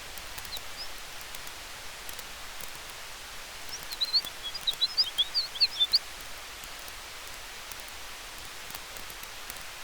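Campfire crackling with faint sparse pops over a steady rushing hiss of wind through trees. From about four to six seconds in, a bird gives a quick run of short high chirps, the loudest sound here.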